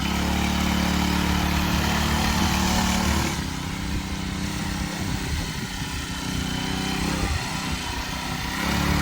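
Mini bike's small single-cylinder engine running under a child rider, its sound dropping back twice and picking up again near the end as the throttle and distance change.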